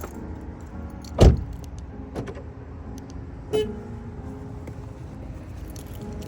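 A car door shutting with a loud thump about a second in, then a smaller knock a couple of seconds later, over a steady low hum.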